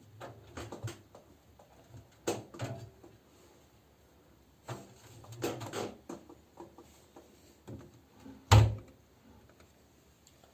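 Knocks and clicks from a front-loading washing machine's door being handled once the cycle has ended, in several short clusters, with one heavy thump about eight and a half seconds in.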